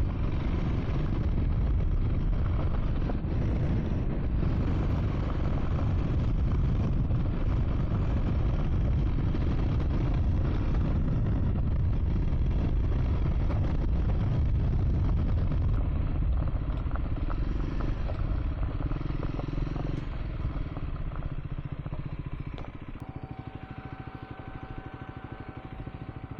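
Triumph Scrambler 400 X motorcycle riding on a dirt track, its engine and a heavy low rumble steady and loud. From about two-thirds through it eases off and gets quieter, and a steady high tone sounds near the end.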